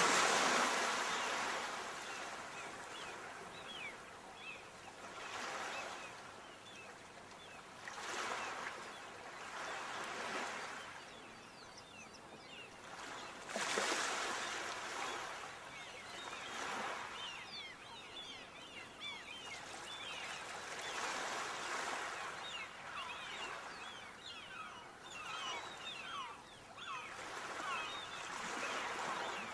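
Sea waves washing in one after another, each surge swelling and fading over a few seconds, with a fine crackle between the surges.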